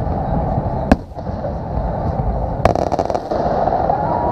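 Aerial fireworks bursting: two sharp bangs about two seconds apart, the second followed by a brief crackle, over a continuous low rumble of further shells. A whistle starts near the end.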